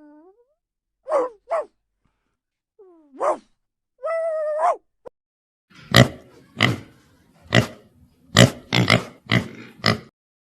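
Animal calls: a few short pitched calls, some falling in pitch and one held for under a second, then a run of about eight short, loud grunts.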